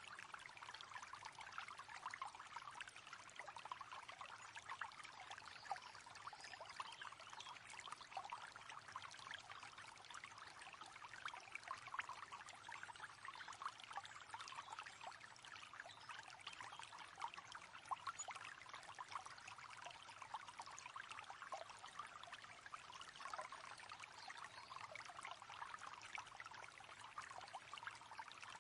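Faint, steady running and splashing water, an even hiss with fine crackle that does not change.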